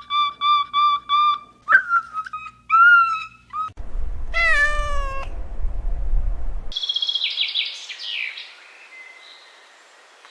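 Animal calls: a quick run of short high-pitched calls, then a longer falling call over a low rumble about four seconds in, then brief high chirps, fading away near the end.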